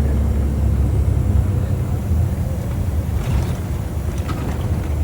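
Tour bus engine and road noise heard from inside the bus: a steady low rumble.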